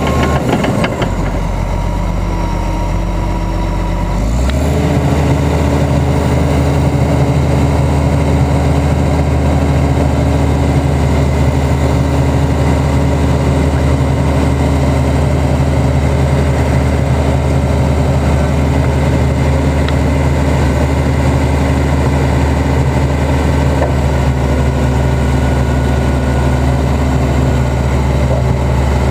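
Komatsu D65EX crawler dozer's diesel engine idling low, then throttled up about four seconds in and held running steadily at the higher speed.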